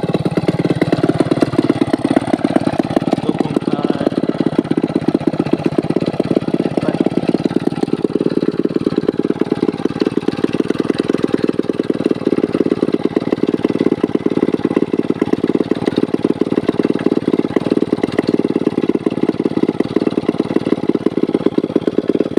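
Two-stroke chainsaw engine running steadily, its rapid firing heard as an even buzzing rattle throughout.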